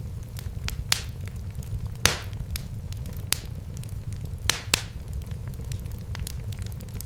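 Wood fire crackling in a fireplace, with sharp pops and snaps every second or so over a steady low rumble of flames. The loudest pop comes about two seconds in.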